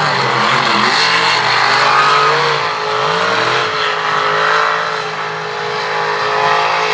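Mega mud truck's big engine running hard at high revs, its pitch climbing about three seconds in and then holding high.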